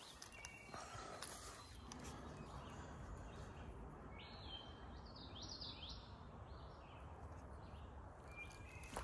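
Faint outdoor ambience with a songbird singing a short run of quick chirps about halfway through.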